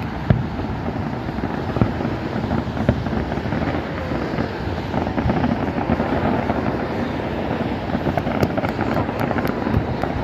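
Fireworks display: a continuous rumble of many distant aerial shell bursts with scattered sharp pops, and crackling stars from about eight seconds in.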